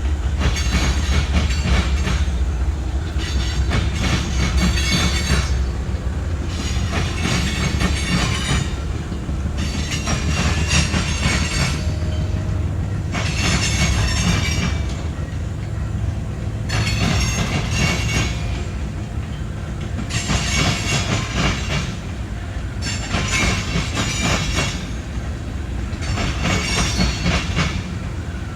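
Freight train rolling past, its wheels clacking over the rail joints with a steady deep rumble that is heaviest in the first several seconds. Rattling, hissing wheel noise swells and fades every two to three seconds as the cars go by.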